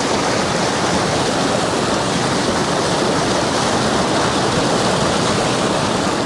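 Mountain stream water rushing over rocks, a loud steady wash of noise.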